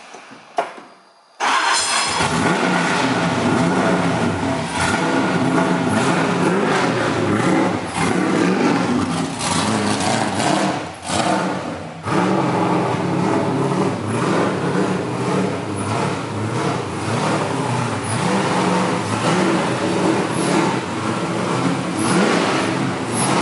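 LS V8 engine in a BMW E46 drift car starting up about a second and a half in, then running loudly and steadily as the car moves, with short dips in level.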